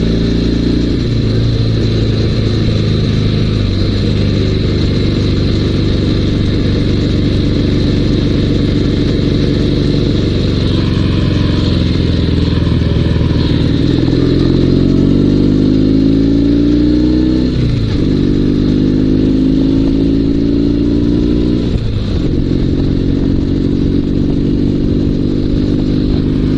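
Dnepr 16 sidecar motorcycle's flat-twin boxer engine running on the road, running on both cylinders again after fuel-starvation cut-outs. Twice in the second half it revs up and drops sharply in pitch, as at gear changes.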